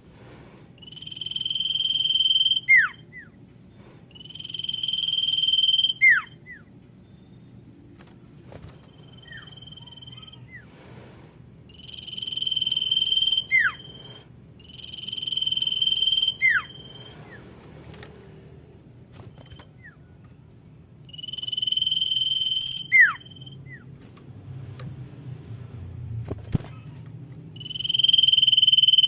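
Common iora (sirtu) calling over and over, about seven times. Each call is a long, steady, high whistle that swells in loudness for one to two seconds and ends in a quick falling note. This is the female's call to the male, used to draw in sirtu.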